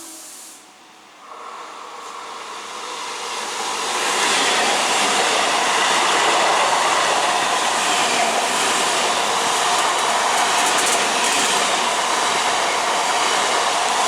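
A train passing close by at speed: wheel-and-rail noise builds over the first few seconds and then holds loud and steady.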